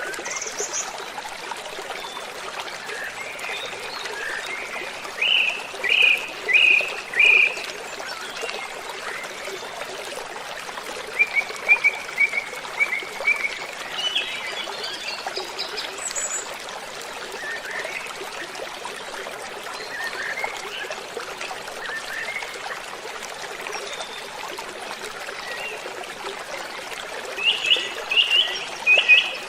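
Waterfall rushing steadily, with birds singing over it: a few loud chirping phrases, a run of quick repeated notes in the middle and the loudest burst of chirps near the end.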